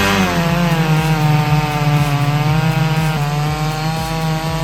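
A two-stroke chainsaw revs up and then runs at full throttle, cutting into a thick log. The engine note holds steady with small wavers in pitch under load.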